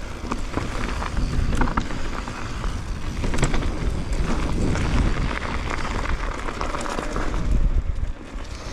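Specialized Levo e-mountain bike descending a rocky trail: tyres rumbling over rock and the bike rattling, with repeated sharp knocks as it hits stones, and wind noise on the camera microphone.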